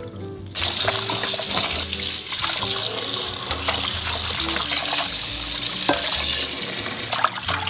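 Water running from a kitchen tap into a sink as salted, floured hagfish is washed clean, with soft background music underneath.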